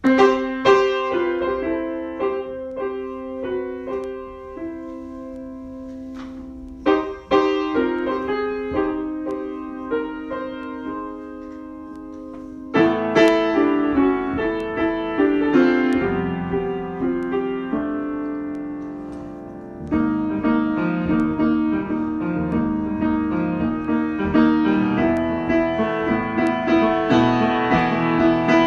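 Piano improvisation: phrases of notes over held lower notes, growing louder and fuller about a third of the way in and again about two-thirds in.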